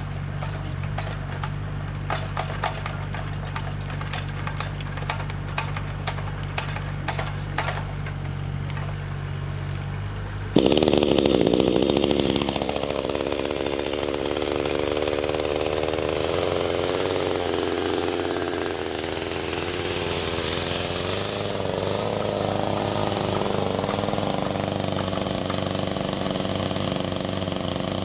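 Chainsaw with a steady low hum and light clicking, then about ten seconds in it suddenly opens up and runs loud at high speed, its pitch sagging and recovering as it bites into acacia wood.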